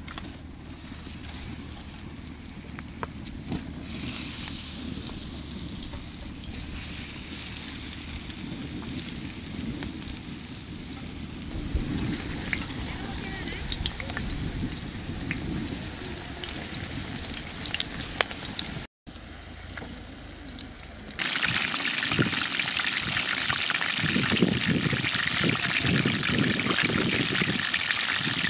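Oil heating in a pan with a light sizzle. After a brief cut about two-thirds of the way in, a much louder, steady sizzle starts: chicken frying in the hot oil.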